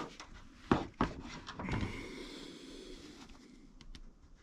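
Two sharp knocks close together a little under a second in, then a faint scraping rustle: handling noise from tools or the inspection scope being worked by hand.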